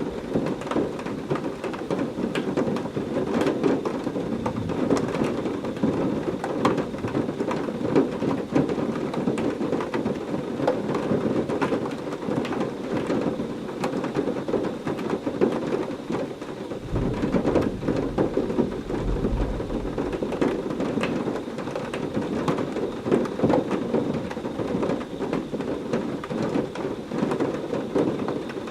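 Heavy rain falling steadily, with many individual drops ticking on a surface. A low rumble of thunder comes in a little past halfway and lasts a few seconds.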